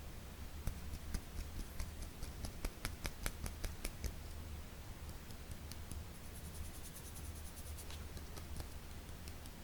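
Fingers tapping on an object in quick, crisp taps: a run of distinct taps through the first four seconds, then a lighter, faster flurry near the end. A low steady hum runs underneath.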